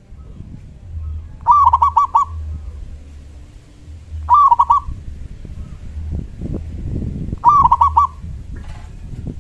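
Zebra dove (perkutut) cooing: three short calls of rapid, trilling coo notes, about three seconds apart, over a low rumble.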